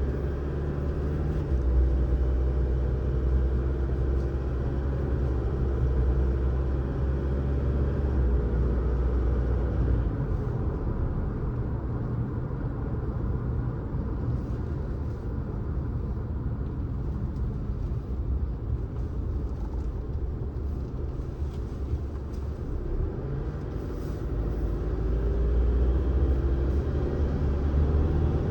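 A car driving on the road: a steady low rumble of engine and tyre noise. The engine note rises and falls a little as the speed changes.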